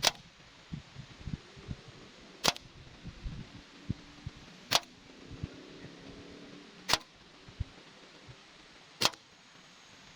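Slingshot shooting with flat latex bands and 6 mm ammo: five sharp cracks about every two seconds. Low, uneven wind buffeting on the microphone underneath.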